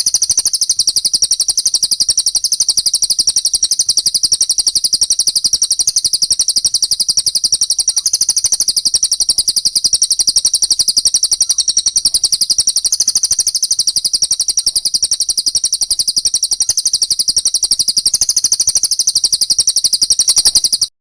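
Recorded songbird song for training cage birds (masteran): a loud, fast, unbroken run of high-pitched chirps that cuts off suddenly just before the end.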